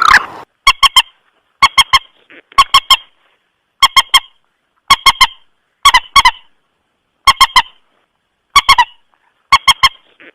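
Lure recording of the mandar sawah, a rice-field rail, calling loudly. Its short, sharp notes come in quick threes, about one group a second.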